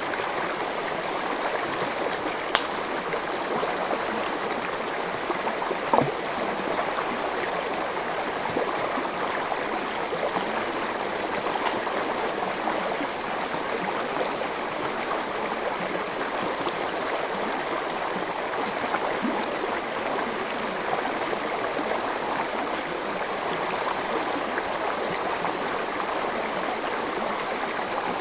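Gentle forest stream flowing steadily, a continuous babble of running water. There are two brief sharp clicks, one about two and a half seconds in and a louder one about six seconds in.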